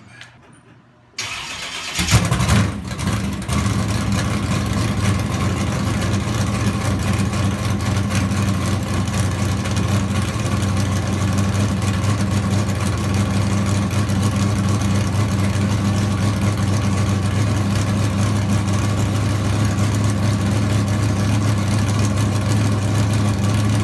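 A 1971 Chevrolet El Camino SS's V8 cranks briefly, catches about two seconds in with a short flare, then settles into a steady idle.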